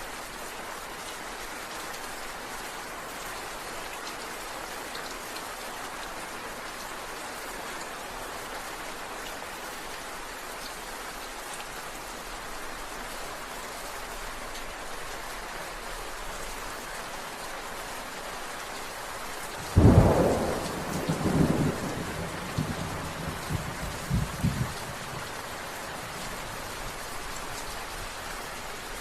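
Steady rain falling, with a sudden thunderclap about two-thirds of the way through that rumbles on in a few pulses for about five seconds before fading back into the rain.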